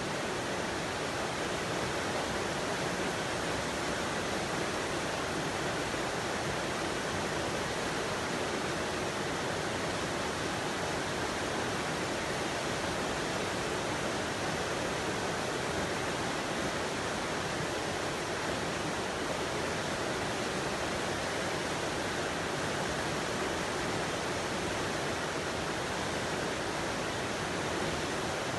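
Steady rushing water, an even unbroken noise with no changes or separate sounds.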